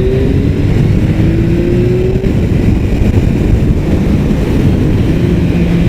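Motorcycle engine accelerating as the bike pulls away, its pitch rising until about two seconds in and then dropping at a gear change, with heavy wind rumble on the rider's microphone.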